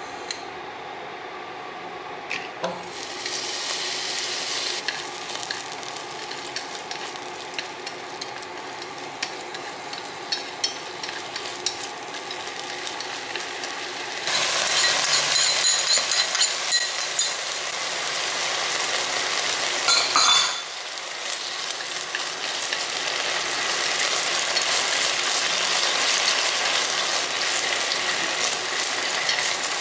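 Chopped garlic and chilies sizzling in hot oil in a nonstick pan, stirred with chopsticks that click against the pan now and then. The sizzle gets louder about halfway through, with a brief louder burst a few seconds later, and keeps building toward the end.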